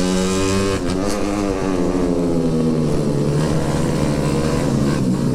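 Motorcycle engine running, its pitch falling slowly through the second half as the revs drop.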